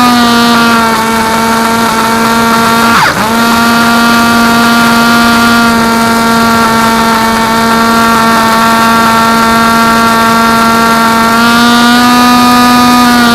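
FPV drone's electric motors and propellers whining at a steady pitch. About three seconds in the pitch drops sharply and springs back, as in a quick throttle chop, and it climbs slightly near the end.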